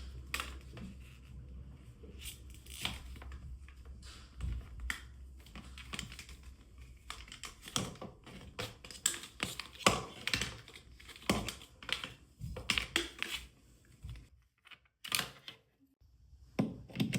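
Handling noises: irregular clicks, taps and rustles, like a hair dryer and its packaging being handled, over a faint low hum that stops near the end.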